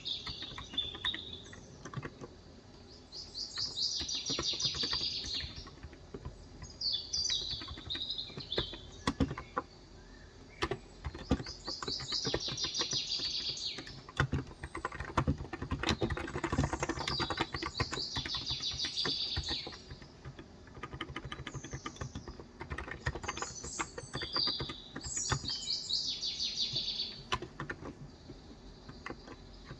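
Typing on a Cox Endeavor tenkeyless keyboard with 35 g electro-capacitive (Topre-style) switches: a steady stream of key strokes. A bird sings over it in short, high phrases, about five times.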